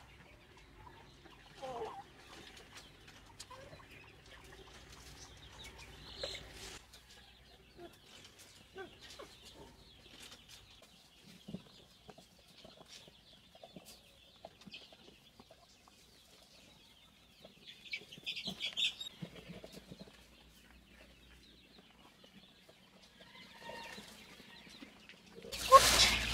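Chickens clucking softly here and there, with brief wing-flapping, and a louder rush of noise just before the end.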